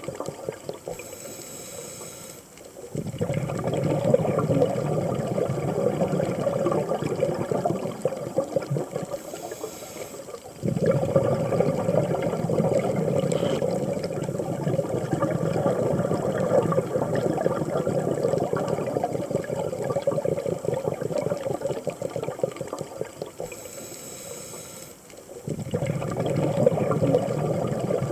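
Scuba diver breathing through a regulator underwater: a short hissing inhale, then long stretches of bubbling exhaust, with another inhale near the end.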